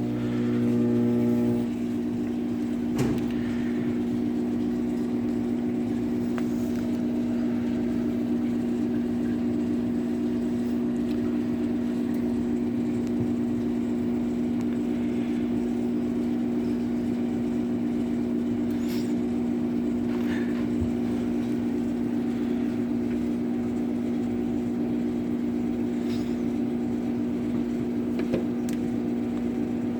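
Microwave oven running with a steady hum, a few faint ticks here and there.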